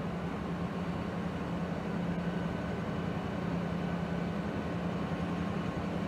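Diesel-hauled train passing: a steady engine drone over continuous rail rumble, the drone cutting off abruptly at the very end.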